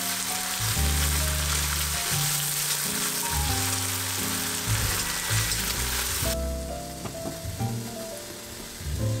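Food sizzling as it fries in hot oil, a steady hiss that stops abruptly about six seconds in. Background music plays throughout.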